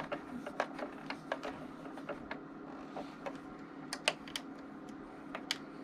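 Irregular small clicks and taps of a screwdriver and metal screws against the Singer Confidence sewing machine's faceplate as the screws are driven back in.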